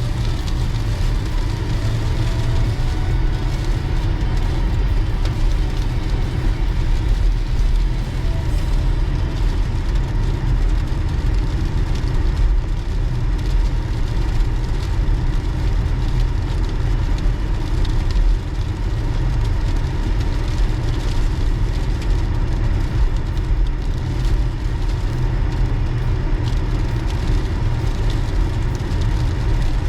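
Steady low rumble of a car being driven: engine and tyre noise, unbroken throughout.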